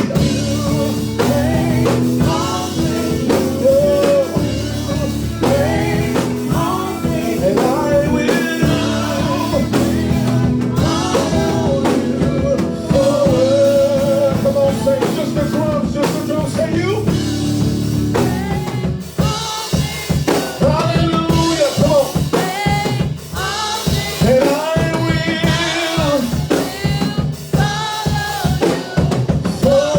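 Live gospel praise music: voices singing over a drum kit with bass and rimshot-like snare hits. The fuller backing thins out about 19 seconds in, leaving mostly singing and drums.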